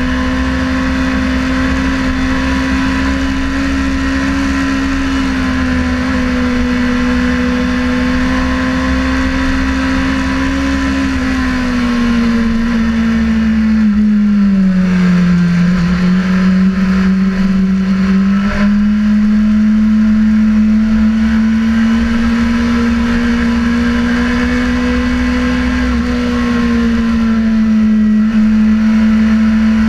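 Sportbike engine running hard at fairly steady high revs, with heavy wind rush on the microphone. About halfway through the revs ease off and then climb back up.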